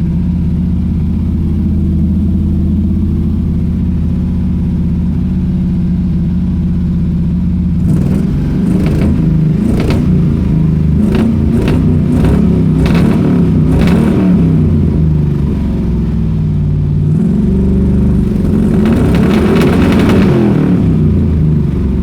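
Pontiac Strato Chief engine running through a new homemade exhaust, idling evenly, then from about eight seconds in stumbling with a string of sharp backfire pops and an uneven idle, with a rise in revs near the end. The backfiring is the sign of the engine running out of gas.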